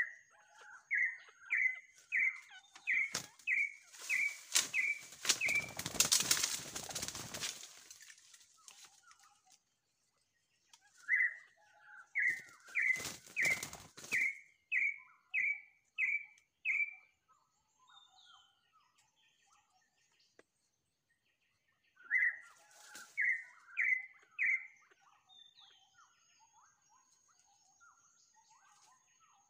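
A bird calls in runs of clear rising whistled notes, about two a second, three times over. During the first two runs come noisy bursts of wing flapping and rustling in dry leaves.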